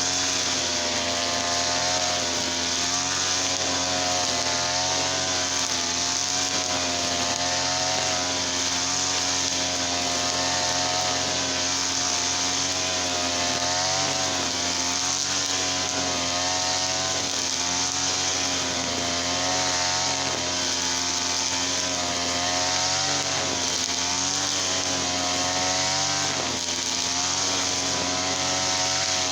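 Small petrol engine running steadily, its pitch wavering slightly up and down, with a brief dip near the end.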